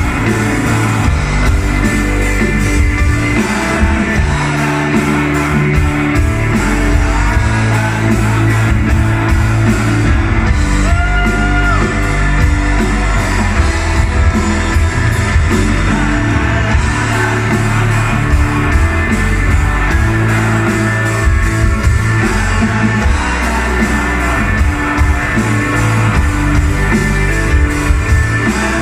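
Live rock band playing loudly with a singer, electric guitars and a steady drum and bass beat.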